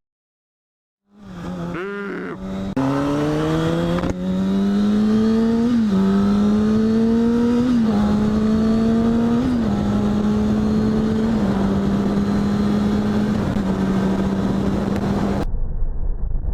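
2008 Kawasaki Ninja ZX-6R's inline-four engine accelerating through the gears. The pitch climbs and drops sharply at each upshift, about four shifts two seconds apart, then the engine holds a steady pitch. It starts about a second in, after a moment of silence.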